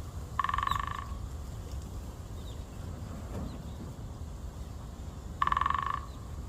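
Great spotted woodpecker drumming on a tree trunk: two fast drum rolls, each about half a second long, the first just after the start and the second about five seconds later.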